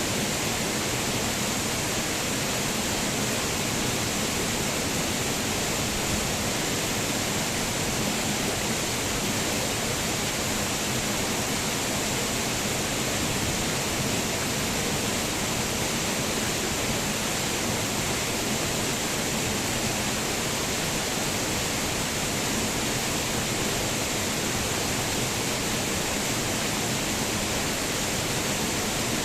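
Waterfall: water pouring and splashing in a steady, unbroken rush, strongest in the hiss of the spray.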